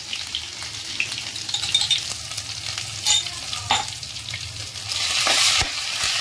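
Ginger-garlic paste sizzling in hot oil in a kadhai, with a couple of sharp clicks about three seconds in. The sizzle grows louder about five seconds in as a spatula stirs the paste.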